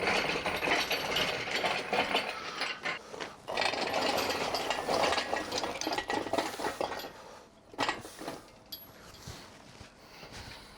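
Rapid metallic rattling and clicking from a hand-worked tool or mechanism, dense for about seven seconds, then a few separate knocks.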